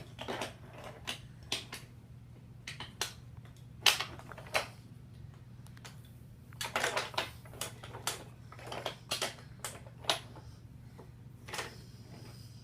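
Irregular clicks and clacks of toy train set pieces being handled and moved, some single and some in quick little clusters, over a steady low hum.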